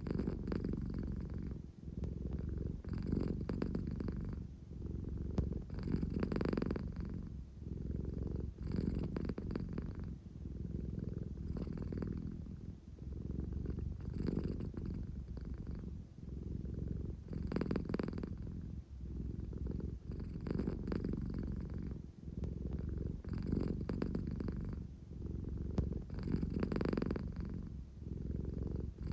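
American Shorthair cat purring steadily, the purr swelling and easing in a slow cycle about every three seconds as she breathes in and out.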